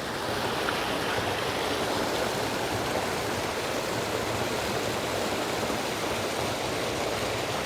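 Creek water rushing steadily over rocks and small falls, getting a little louder just after the start and then holding level.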